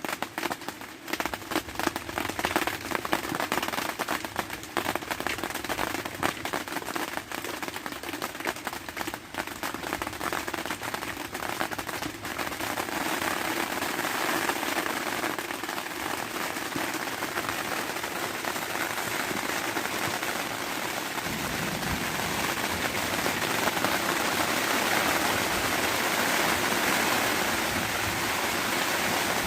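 Heavy rain arriving: at first a dense patter of separate drops striking a surface, thickening after about twelve seconds into a steady downpour that grows a little louder.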